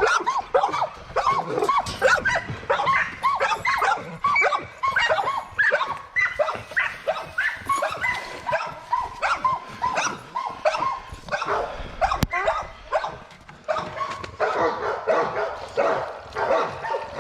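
Several dogs barking, yipping and whining over one another in a dense, continuous stream of short calls while waiting to be fed.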